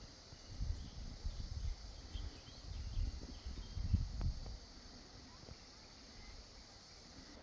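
Outdoor ambience: irregular low rumbles of wind on the microphone over a steady high hiss. The rumbling eases off a little past halfway.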